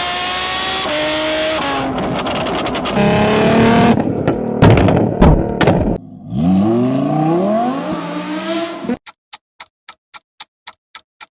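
Car engine running, then revving in several short loud blips and accelerating with rising pitch. About nine seconds in it gives way to a fast ticking countdown-timer effect, about five ticks a second.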